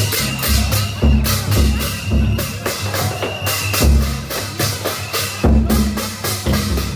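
Procession drums and cymbals beating a rapid, loud rhythm, with deep drum booms under clashing cymbal strokes.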